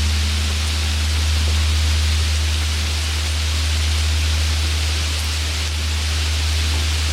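Steady rain, with the low hum of a large Korean Buddhist temple bell still ringing on after a strike; a higher tone of the bell dies away about three seconds in while the deep hum carries on.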